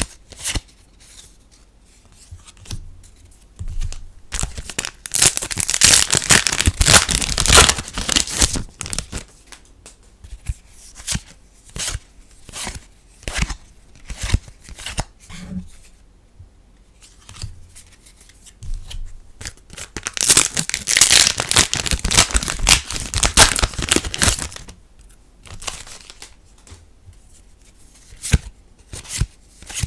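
Foil trading-card booster packs being torn open and crinkled, twice: once about five seconds in and again about twenty seconds in. Between them, cards slide and tap as they are handled.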